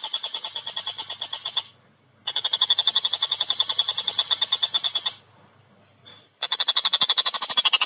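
Tengkek buto kingfisher chattering: a fast, tightly spaced run of harsh repeated notes, about ten or more a second. It comes in three bouts, broken by short pauses about two seconds in and again in the middle.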